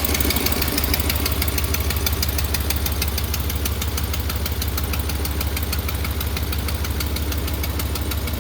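A 2021 Ram pickup's engine idling on a cold start, with a rapid, even ticking running through it. The owner takes the ticking for leaking BD aftermarket exhaust manifolds together with lifter tick.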